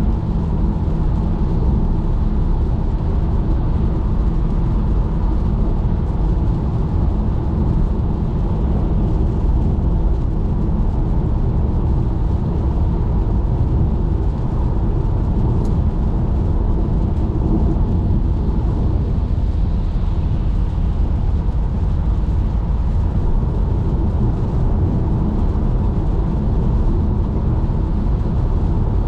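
Steady low rumble of a car driving on a wet motorway in the rain: tyre and road noise.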